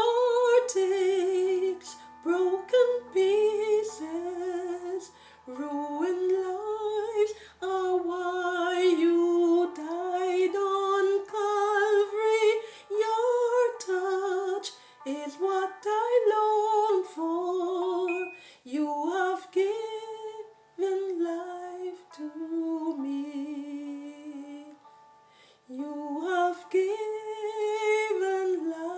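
A woman singing a slow, hymn-like melody in separate phrases, with vibrato on held notes and a brief pause about 25 seconds in before the next phrase.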